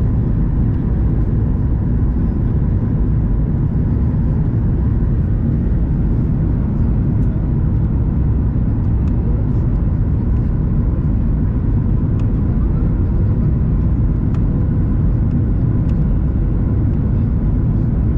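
Steady engine and airflow rumble inside the cabin of a Boeing 737 MAX 8 airliner on its approach to land, mostly low with a faint steady hum on top.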